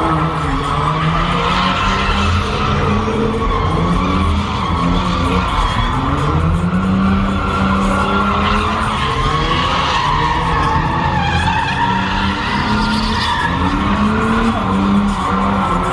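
A car's tyres squealing without a break as it spins them, with the engine revving up and down underneath.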